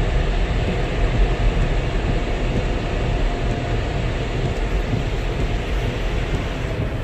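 Touchless car wash air-dryer blowers running steadily, heard from inside the car's cabin as a continuous rushing roar.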